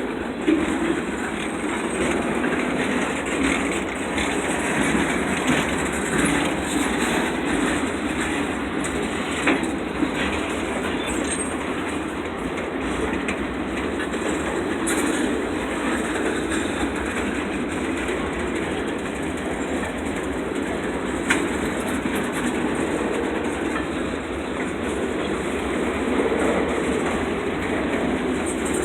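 Freight train cars rolling past with a steady rumble, the wheels clacking now and then over rail joints.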